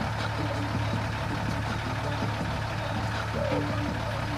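International DT466 straight-six diesel engine idling steadily.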